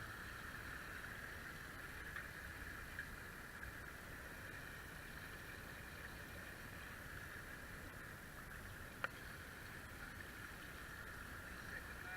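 Steady rush of water and wind on a Hobie Cat catamaran under sail, with one sharp click about nine seconds in.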